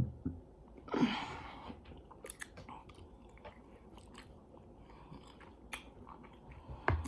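Close-miked chewing of food, with small wet mouth clicks and smacks scattered throughout and a louder noisy bite or crunch about a second in.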